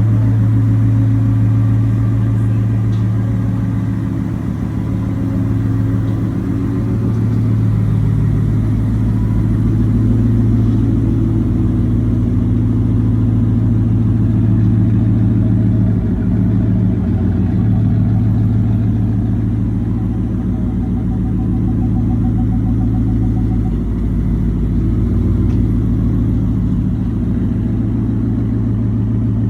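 Ford pickup truck's engine running steadily at low revs, a deep even note that wavers briefly in pitch a few times as the truck creeps along.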